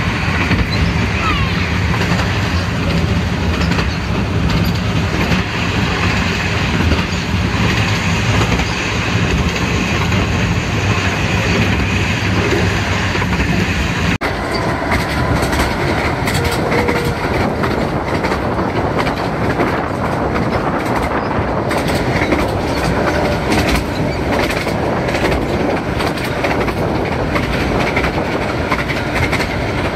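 A 15-inch-gauge miniature railway train heard from inside a moving carriage: steady running noise with the clickety-clack of the wheels over the rails. About halfway through, a low steady drone cuts out and the sound turns more rattly, with frequent clicks.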